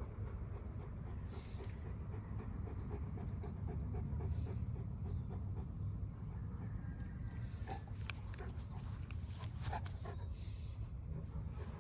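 A dog panting in quick, regular breaths, about five a second, over a steady low rumble. A few sharp clicks come between about eight and ten seconds in.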